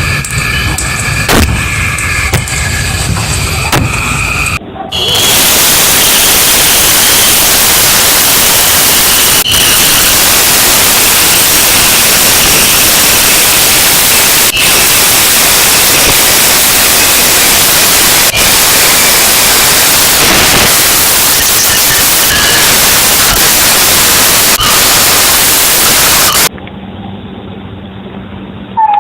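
Loud, steady hiss of heavily amplified recording noise, starting suddenly about five seconds in after a short stretch of faint high-pitched tones and clicks, with a few faint clicks through it and dropping away sharply near the end.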